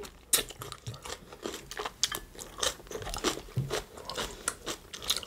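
Close-miked chewing of a mouthful of Greek salad with crisp lettuce leaves: a string of irregular wet crunches.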